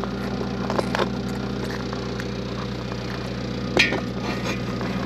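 A machine running steadily with a low, even hum, with a few sharp knocks and clanks over it, the loudest nearly four seconds in.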